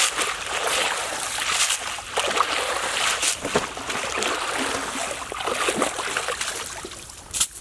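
Water splashing and sloshing, with many irregular splashes close by.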